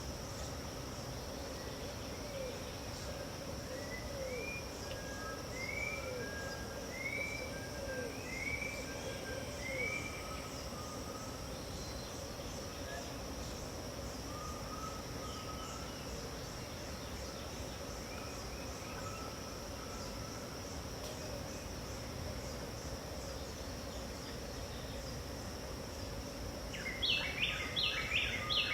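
Dawn chorus of birds over a steady high-pitched insect drone. Scattered calls, including a run of short arched whistled notes in the first few seconds, give way near the end to a loud, rapid series of repeated chattering notes from a bird.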